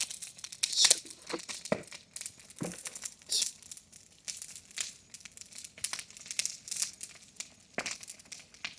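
Bonfire burning, crackling with many irregular sharp pops and snaps.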